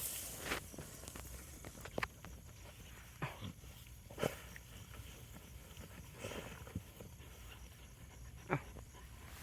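Hunting dogs digging, giving about half a dozen short dog sounds spread a second or two apart over a faint background.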